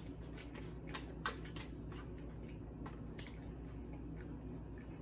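Close-up chewing and mouth sounds as a curly fry is eaten: a run of small sharp clicks and wet smacks, the loudest about a second and a quarter in, over a faint steady hum.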